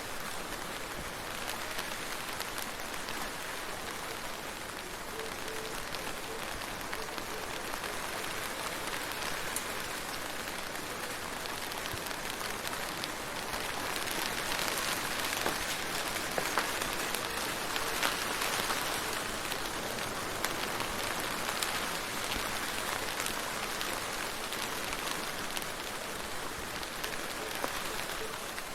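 Steady rain falling, with individual drops ticking through the hiss. It grows a little heavier for a few seconds about halfway through.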